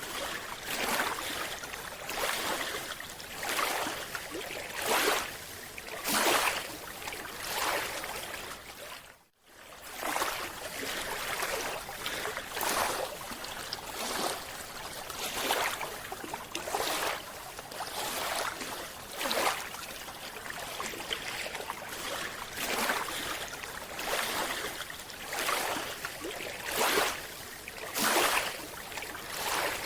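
Rushing, bubbling water heard underwater, swelling in regular surges about every second and a half, with a brief drop-out about nine seconds in.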